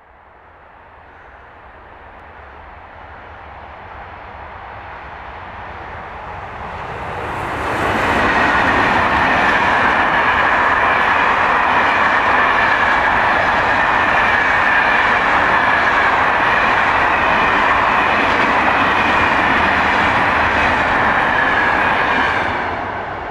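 Freight train passing at speed on an electrified main line: the rolling noise builds as it approaches, then the covered freight wagons go by in a loud steady rush with a high steady squeal from the wheels, easing off near the end as the train moves away.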